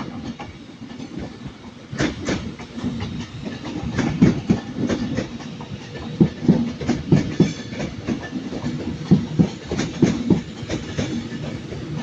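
A passenger train's wheels knocking over rail joints and pointwork as it runs slowly through the station: an uneven run of clicks and clacks that starts about two seconds in.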